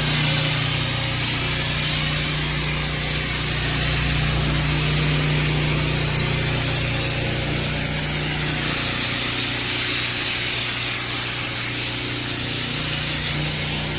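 Pressure washer spraying water onto paver driveway, a steady hiss over the washer's engine running at a constant pitch.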